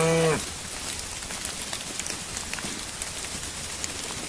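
A cow's low call to her newborn calf ends about half a second in, then steady rain patters and drips, with many small scattered drops.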